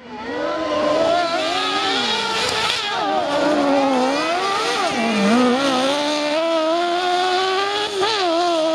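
Suzuki GSX-R inline-four motorcycle engine of a mini sand rail revving hard as the buggy is driven, its pitch rising and falling over and over, with a couple of sharp drops off the throttle.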